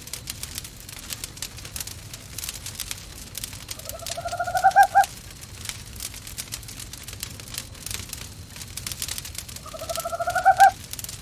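Owl hooting twice, about six seconds apart, each call a quavering hoot about a second long that rises in pitch. Under it a wood fire in a fireplace crackles and pops steadily.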